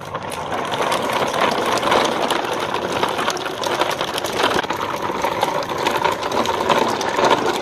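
Small motor of a battery-powered toy vehicle running steadily with a dense, rapid clattering.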